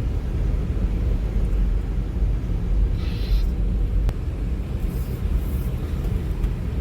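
Steady low rumble of a car's engine and tyres heard from inside the cabin while driving, with a single sharp click about four seconds in.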